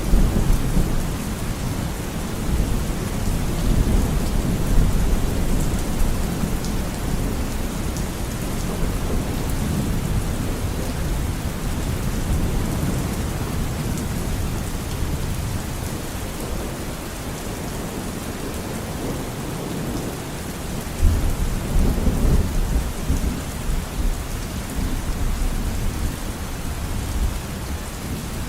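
Steady rain falling with a constant hiss, under low rumbles of thunder. A louder rumble swells about two-thirds of the way through.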